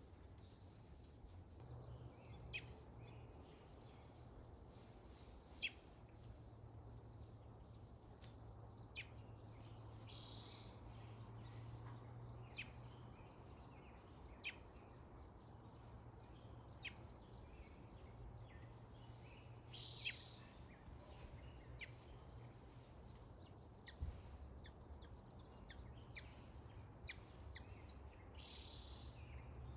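Faint outdoor quiet with scattered short bird chirps, several a little louder than the rest, and three brief raspy calls about ten seconds apart, over a low steady hum.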